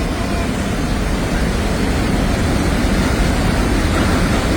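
Steady rushing of a swollen, flooding mountain stream in spate after heavy rain.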